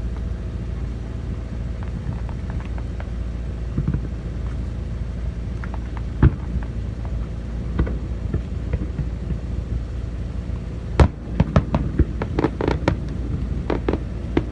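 Fireworks going off over a steady low rumble: a single sharp bang about six seconds in, another near eight seconds, then a rapid run of crackling pops in the last few seconds.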